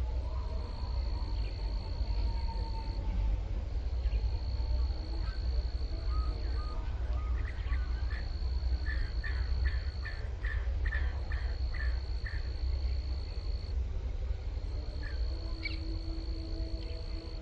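Insects drone in a steady high tone that comes in bursts of a few seconds, with short gaps between them. In the middle, a bird gives a run of about ten short chirps, roughly two a second. A low rumble runs underneath.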